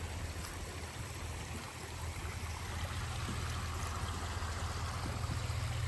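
Creek water running steadily, over a constant low hum.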